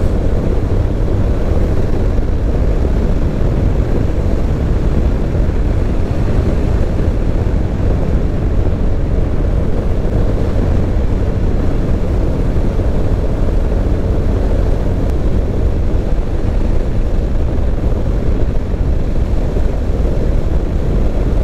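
Motorcycle riding at a steady speed, its engine and the rush of wind and road noise making a loud, even sound heaviest in the low end.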